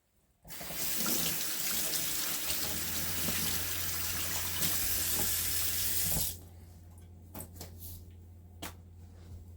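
Kitchen tap running in a full stream into a sink for about six seconds, then shut off abruptly, followed by a few light clicks and knocks.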